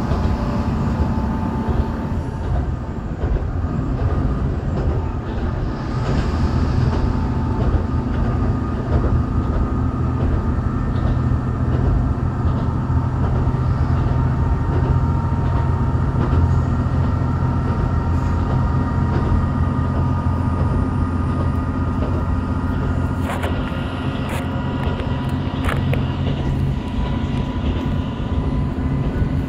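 Diesel railcar running along the line, heard from inside the car: a steady engine drone over wheel and rail noise, with a few sharp clicks from the track near the end.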